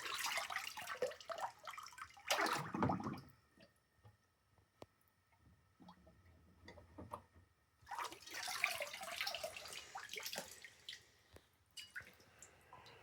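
Water splashing and dripping as a freshly anodized aluminium rim part is rinsed in distilled water to flush the acid out of its holes. It comes in two stretches of about three seconds, at the start and again about eight seconds in, with small drips and clicks between.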